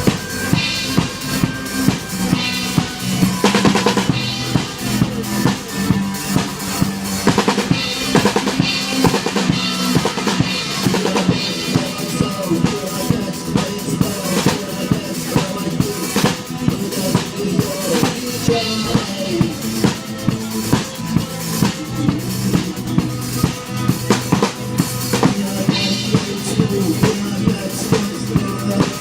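Rock music with a steady drum-kit beat, about two strokes a second, over sustained bass and guitar.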